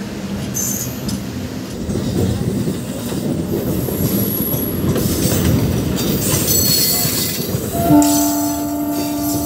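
Running noise of a MEMU electric train heard from its open doorway: a steady rumble of wheels on rail with faint high wheel squeal. About eight seconds in, a train horn starts, one steady chord held on.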